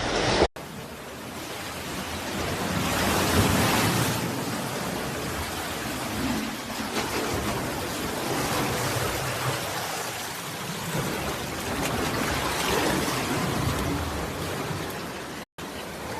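Sea waves washing over a pebble beach, heard as a steady rushing that swells about three seconds in. The sound breaks off for an instant twice, about half a second in and near the end.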